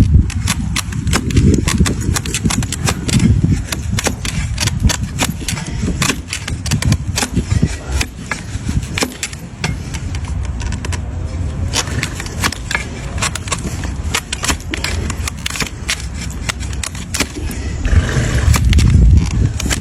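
A blade cutting and paring a donkey's hoof horn, with many sharp, irregular cracks and clicks over a low rumble; it gets louder near the end.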